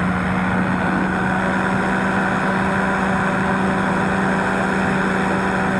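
Powered parachute's engine and propeller running at a steady cruise setting in flight, an even drone with a strong steady pitch that does not change.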